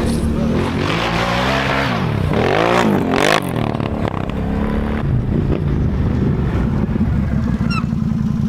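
Can-Am Outlander 1000 ATV's V-twin engine through an RJWC single aftermarket exhaust, revved up and down twice about two to three seconds in, then running at a steady, lower speed with a rapid pulsing exhaust note.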